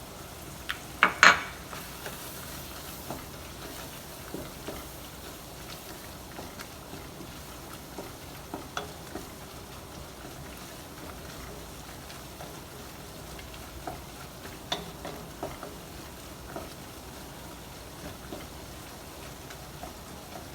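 Flour cooking in fat in a frying pan to make a roux: a steady sizzle, with a stirring utensil clicking and scraping against the pan. A sharp knock on the pan comes about a second in.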